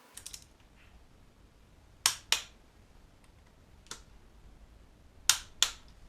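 A few sharp clicks and taps: a quick cluster at the start, then two pairs about a quarter second apart with a single click between them, over a faint low rumble.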